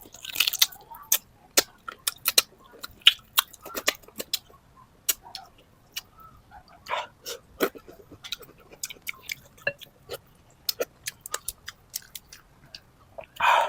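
Close-miked chewing of chicken tinola: irregular wet smacks and sharp mouth clicks, several a second.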